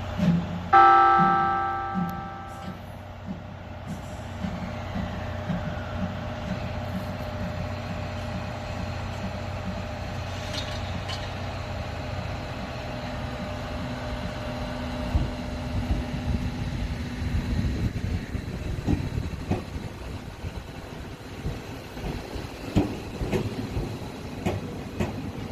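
Tobu 500 series Revaty electric limited express pulling out of a station. Near the start a loud tone with several pitches sounds once and fades over about two seconds. After that a low steady running sound continues, and from about the middle the wheels click and thump over rail joints more and more often as the train gathers speed.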